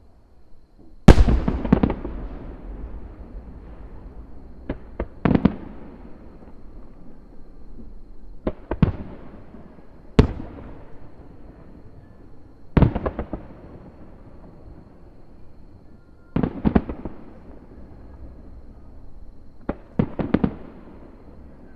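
Aerial firework shells bursting overhead: about eight irregular booms, some in quick double or triple bangs, each trailing off in a rolling rumble. The loudest comes about a second in.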